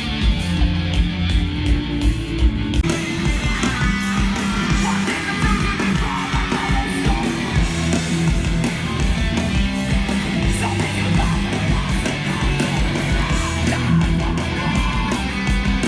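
Live hardcore band playing: distorted electric guitars over drums, loud and continuous, with the sound filling out about three seconds in.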